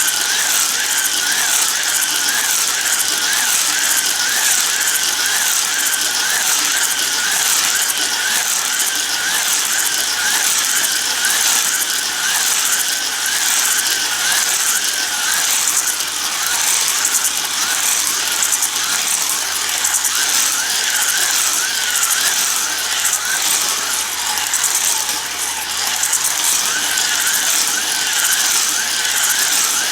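Battery-powered Hot Wheels slot cars running on a plastic figure-8 track: small electric motors whine and plastic gears buzz without a break, the whine wavering up and down in pitch.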